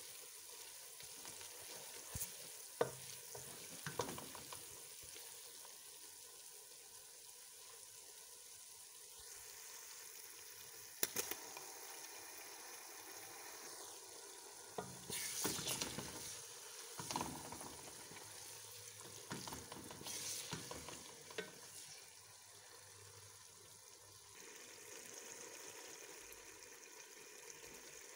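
Chopped onions and tomatoes frying in oil in a steel pot: a steady sizzle, with a spoon stirring and now and then knocking and scraping against the pot, busiest a little past the middle.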